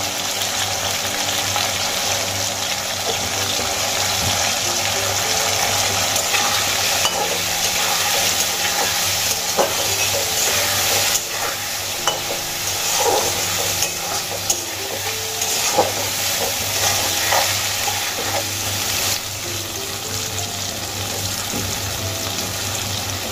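Potato wedges sizzling steadily in hot oil in a metal kadai, turned with a flat metal spatula that scrapes and knocks against the pan now and then.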